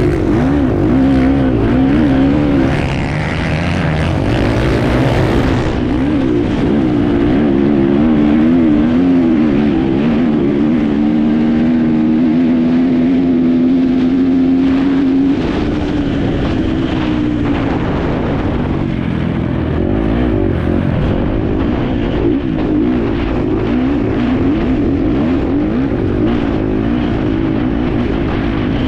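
Enduro dirt bike engine heard from an onboard camera while racing, its revs rising and falling as the rider works the throttle. Around the middle it holds a steady high pitch for a few seconds, then drops, with rough knocks and wind noise throughout.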